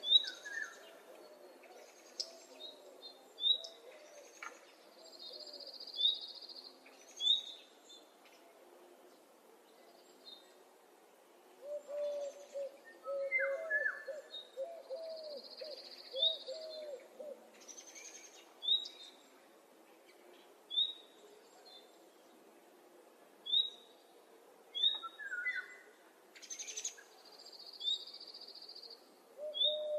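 Several wild birds calling in spring: short, high, falling chirps repeated every second or two, a buzzy trill three times, and runs of low hooting calls near the middle and again at the end.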